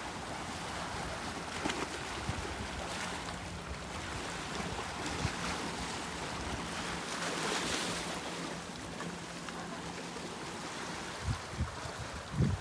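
Sea waves washing on the shore in a steady hiss, one swelling and breaking louder about two-thirds of the way through, with sea wind blowing over the microphone and a few low buffets near the end.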